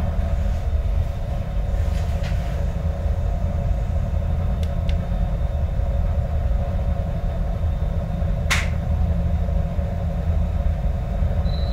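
Yagan Railway 6050-series electric train heard from inside the car: a steady low running rumble of wheels on the track, with a sharp click about eight and a half seconds in.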